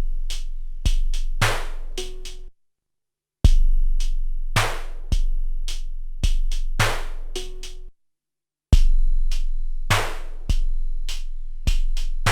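Drum beat sampled and played back on an SP1200 12-bit sampler drum machine: deep booming kicks with long low tails under sharper hits, each phrase ending in a short pitched hit. The phrase is about two and a half seconds long and plays three times, with a brief silence before each repeat.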